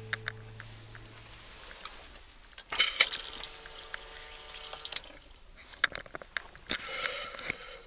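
Acoustic guitar music fading out. Then water pouring for about two seconds, with small clicks and knocks of handling, and a second short splash of water near the end.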